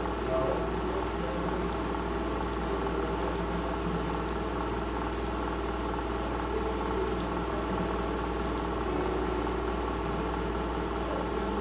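Steady machine hum, like a computer or fan running close to the microphone, with faint computer-mouse clicks, often in quick pairs, a second or so apart.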